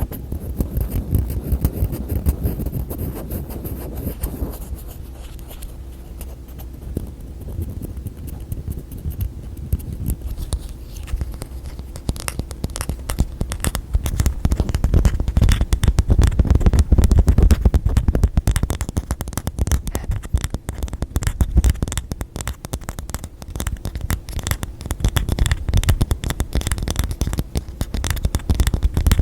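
Fast, dense tapping and scratching of fingertips on objects close to the microphone, with a heavy low rumble under the clicks. It gets busier and louder about halfway through.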